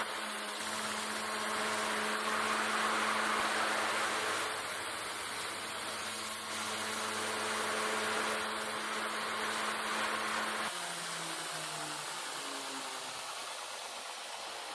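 Single-phase 2x82 inch belt grinder running with steel being ground on the belt, a steady motor hum under a gritty hiss. About eleven seconds in the motor is switched off and spins down, its hum falling in pitch as it slows.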